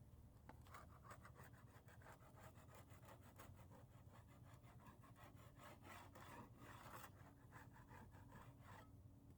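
Putty knife scraping old paint off siding in quick repeated strokes, several a second; faint.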